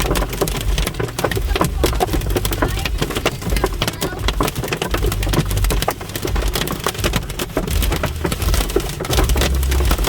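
Hail and heavy rain hitting hard: a dense, rapid, irregular clatter of sharp impacts, over a low rumble that swells several times.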